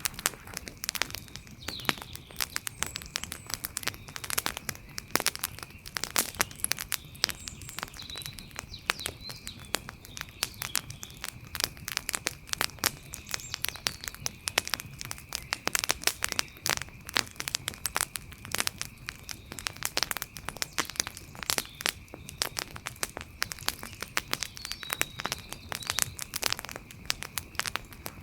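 Wood fire crackling: dense, irregular pops and snaps over a low hiss.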